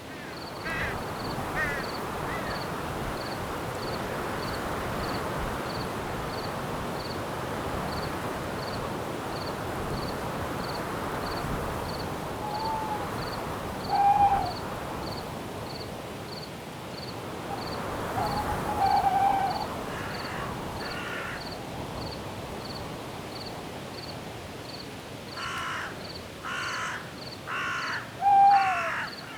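Night forest ambience: a steady rush of wind in the trees under an even cricket chirp about twice a second. An owl hoots a few times, and harsh, crow-like calls come near the end.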